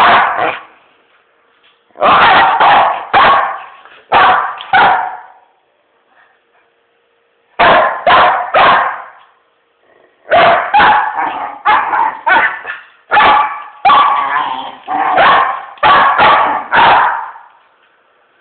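An angry dog barking in short bouts of two to four barks, with quiet gaps of a second or two between bouts and a longer run of rapid barks in the second half.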